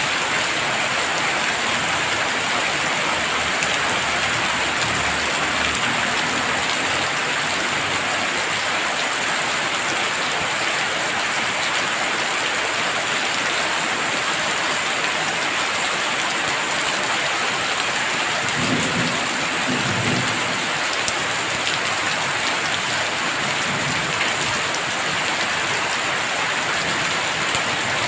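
Heavy rain falling steadily, a dense even hiss, with low rumbles of thunder, the clearest about two-thirds of the way through.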